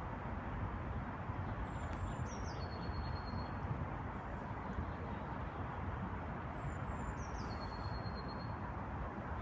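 A songbird sings the same phrase twice, about five seconds apart: a few short high notes stepping down into one held whistle. Under it runs a steady low rumble of background noise.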